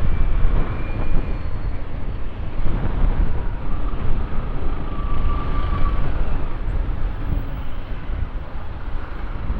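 Road traffic heard from a motorcycle: a steady low rumble of engines and road noise, with a faint steady whine for a couple of seconds midway.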